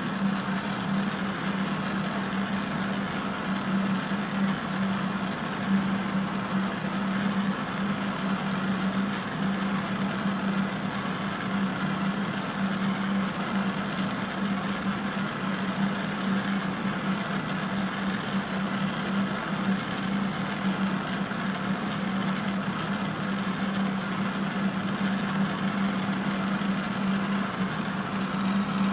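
Steady rushing drone of fume-extraction fans with a constant low hum, mixed with the hiss of an oxy-acetylene torch turned up high for soldering.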